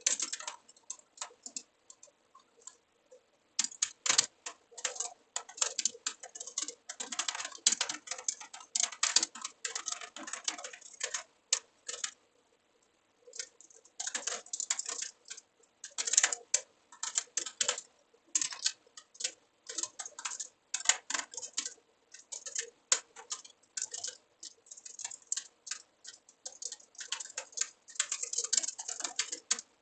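Typing on a computer keyboard: runs of rapid, irregular key clicks broken by short pauses, one about two seconds in and another about twelve seconds in.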